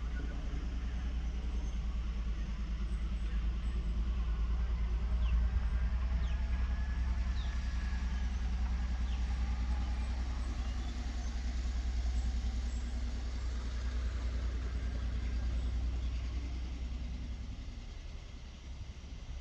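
A motor vehicle's engine running, a steady low rumble that fades away near the end.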